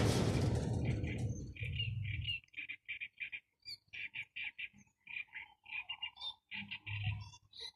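A loud rushing noise that fades away over the first couple of seconds, then a bird chirping in rapid runs of short notes, several a second.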